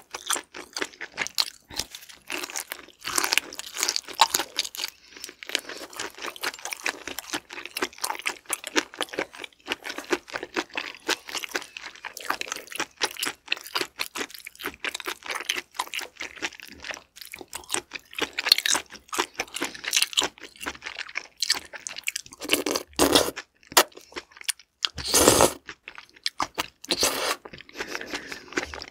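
Close-miked chewing of raw shrimp wrapped in sea cucumber intestines: a dense run of wet mouth clicks and squishes, with a few louder bursts near the end.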